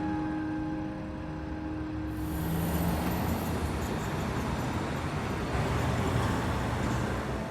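City street traffic: a motor vehicle passes close by, its engine and tyre noise swelling into a loud rushing sound, then stopping abruptly near the end.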